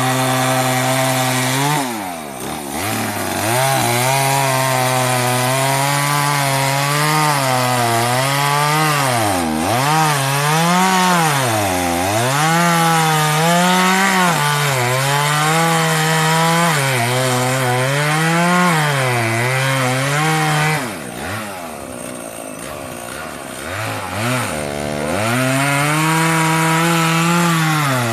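Two-stroke chainsaw cutting wood, its engine pitch swinging up and down as the chain bites and frees. It eases off briefly about two seconds in and drops back for a few seconds past the twenty-second mark before revving up again.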